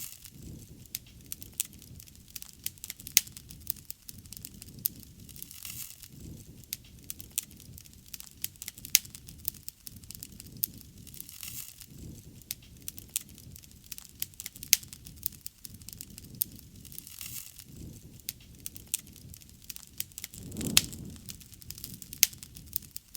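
Wood bonfire burning, with steady crackling and sharp pops from the burning wood. Underneath is a low rushing that swells and fades every two seconds or so. A louder swell with a strong pop comes near the end.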